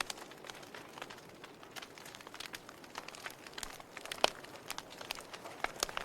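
Burning log fire crackling: a steady soft hiss under irregular sharp pops and snaps, the loudest pop about four seconds in.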